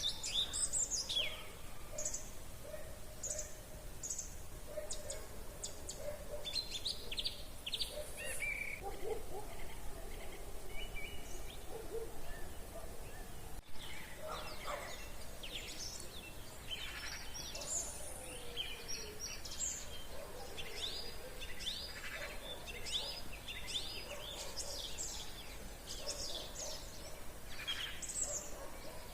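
Several wild birds singing in the evening, a dense mix of short chirps, trills and quick whistled phrases from different birds, over a faint steady background hum.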